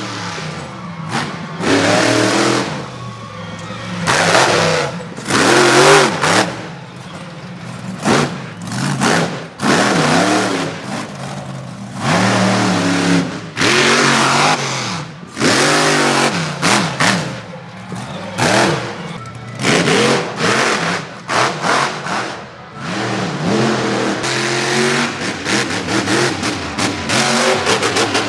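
Monster truck's supercharged V8 engine revving hard in repeated throttle bursts, the pitch climbing and dropping every second or two.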